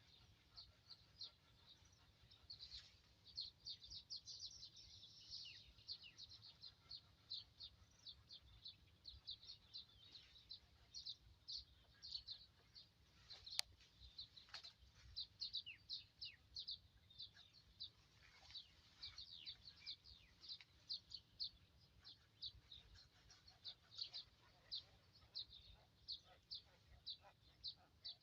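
Faint, continuous high-pitched chirping of small birds, short quick notes several a second, with a single sharp click about halfway through.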